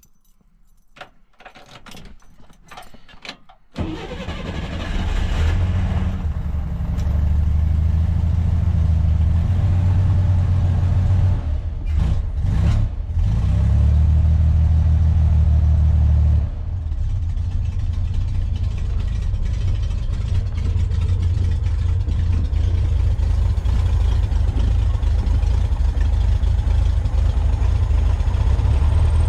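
1963 Chevrolet Corvair's air-cooled flat-six catching and starting about four seconds in, after its carburetors were rebuilt and their bowls filled by hand. It runs fast at first, stumbles briefly near the middle, then settles to a lower, steady idle.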